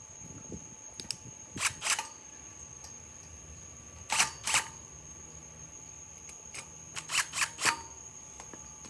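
Short, sharp mechanical clicks: two pairs, then a quick run of four near the end. A steady high-pitched whine runs underneath.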